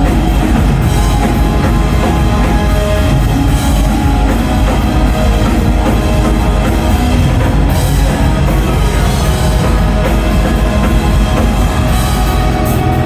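Live blackgaze band playing loud and steady: a dense wall of distorted guitars over a driving drum kit.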